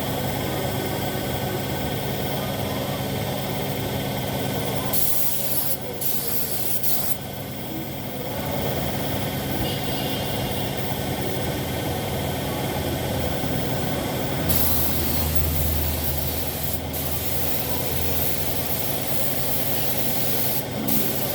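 Paint spray gun hissing as motorcycle body panels are sprayed: two short bursts about five seconds in, then one long burst of about six seconds from the middle on. Under it runs a steady machine hum.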